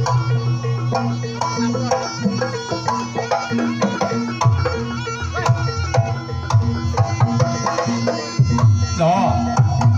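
Live Javanese jaranan music: kendang hand drums beating quick strokes over steady pitched instrument tones, with a few sliding melodic notes near the end.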